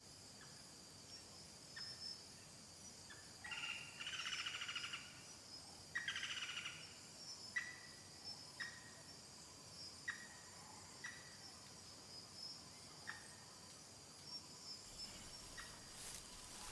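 Faint outdoor ambience of birds and insects: a steady high insect drone, a bird's short chirps repeating about every second, and two longer rapid trilled calls about four and six seconds in.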